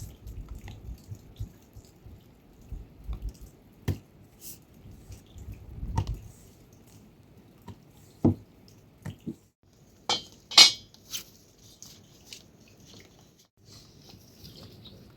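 Irregular drips and small knocks, with a louder clatter of a few knocks about ten seconds in.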